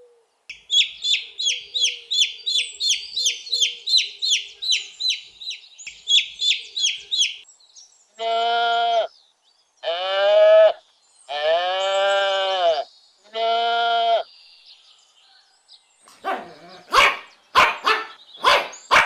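A run of animal calls. First comes a high chirp repeated two to three times a second for about seven seconds. Then come four long bleats of about a second each, and near the end a few short, sharp bark-like calls.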